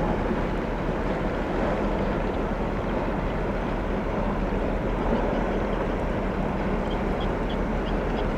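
Steady low rumble and wash of a passing container ship, with wind on the microphone.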